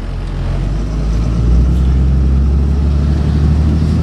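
5.9-litre Cummins diesel engine of a Ford F650 truck pulling away in drive, heard from the cab: its low note rises and grows louder over the first second or so, then holds steady.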